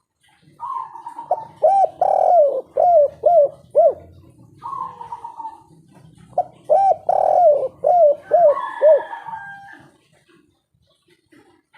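Spotted dove cooing: two song phrases, each a drawn-out opening note followed by a quick run of about six arched coos, with a pause between them.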